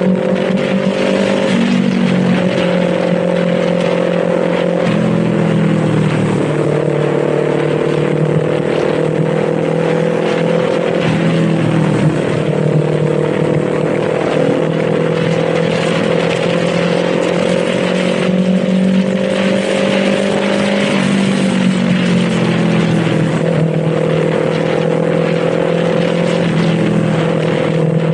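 Kawasaki Z400 parallel-twin motorcycle engine running under way, its note climbing slowly and dipping several times as the throttle changes, with wind and road noise underneath.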